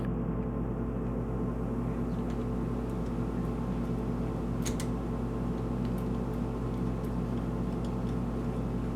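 A steady machine hum made of several constant tones, with a couple of faint clicks about halfway through.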